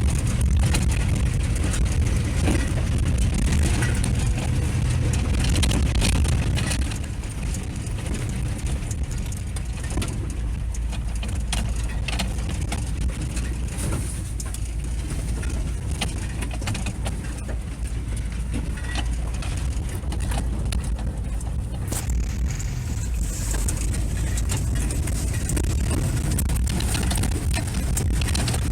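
Vehicle driving, a steady low engine and road rumble with scattered knocks and rattles. It eases off a little about seven seconds in.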